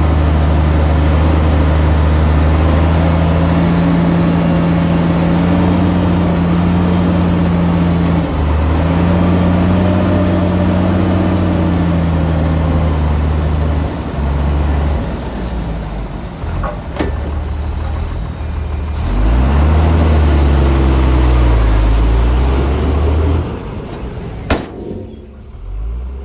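Heavy diesel engine of earth-moving machinery working under load, its pitch rising and falling. It eases off about halfway through, works up hard again, then drops away near the end, with a few sharp knocks.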